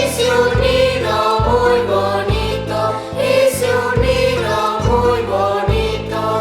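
Children's choir singing a huayno with instrumental accompaniment, over low bass notes struck about once a second.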